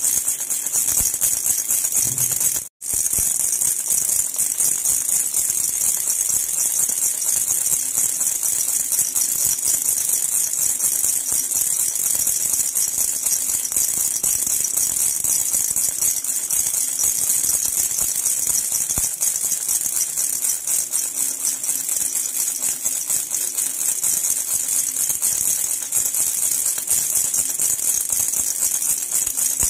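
Silver jhunjhuna baby rattle shaken without pause, a dense, high, continuous jingle, with a momentary break about three seconds in.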